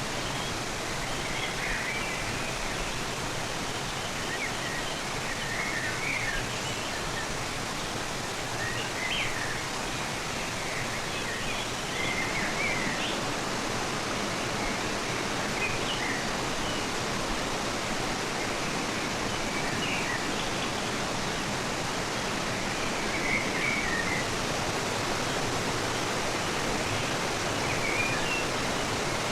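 A rushing river flowing steadily, with short bird chirps now and then.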